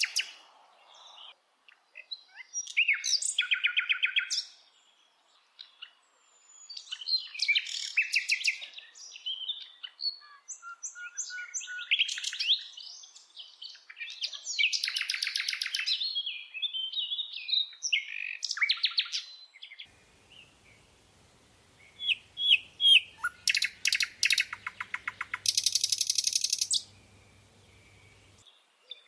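A bird singing a varied series of short chirping phrases and rapid trills, each lasting a second or two, with brief pauses between them.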